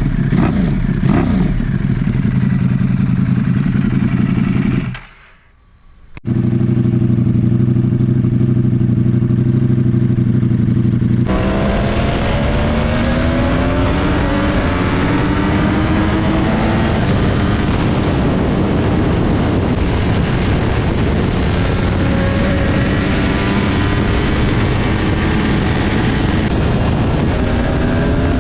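Ducati Panigale V4's V4 engine through a Termignoni titanium underseat exhaust: a few quick throttle blips, then a steady deep idle. After a brief gap about five seconds in, the sound changes abruptly at about eleven seconds to the engine running with its pitch rising again and again.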